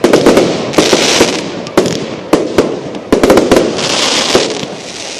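Fireworks display: a rapid run of sharp aerial shell bangs, each echoing, with two stretches of crackling fizz, about one second and four seconds in.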